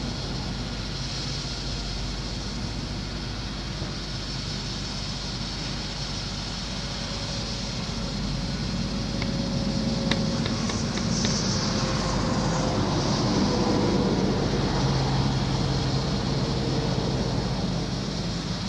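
A 2001 Freightliner FL80 bucket truck's diesel engine running steadily, rising somewhat in level about halfway through. A faint whine and a few sharp clicks come in around ten seconds in.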